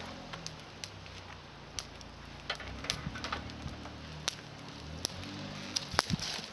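Small campfire of climbing-rose twigs crackling, with scattered sharp pops and ticks, over a low steady hum.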